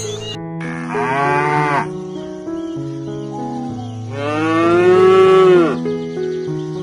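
Cow mooing twice: a short moo about a second in, then a longer, louder moo around four seconds in, over soft background music.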